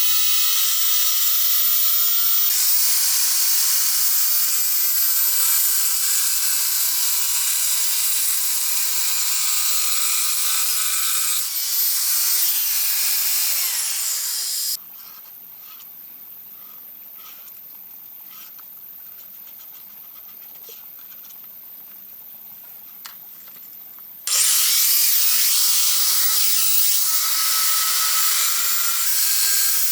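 A high-speed power tool running in several cut-together stretches, winding up in pitch as each starts. In the middle, about ten seconds of much quieter sound with faint light taps.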